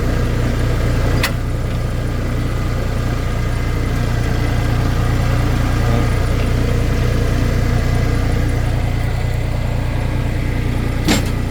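Kubota L3560 diesel tractor engine idling steadily, with a sharp knock about a second in and another near the end.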